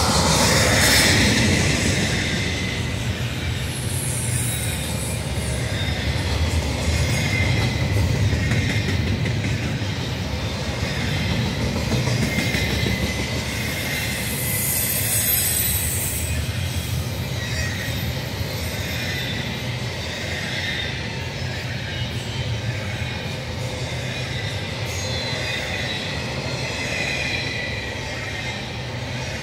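Union Pacific double-stack intermodal freight train rolling past at trackside: a steady rumble of steel wheels on rail, with a high wheel squeal over it that flares up about a second in, again around four seconds in, and most strongly around fifteen seconds in.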